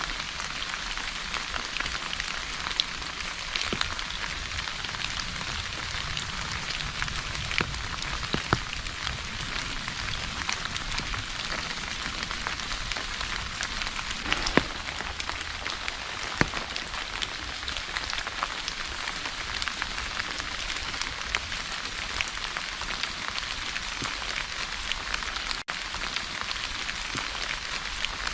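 Steady rain falling, an even hiss, with scattered louder single drops ticking close by.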